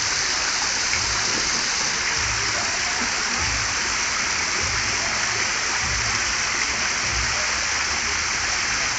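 Steady hiss of sea surf washing on a beach, with irregular low rumbles of wind on the microphone.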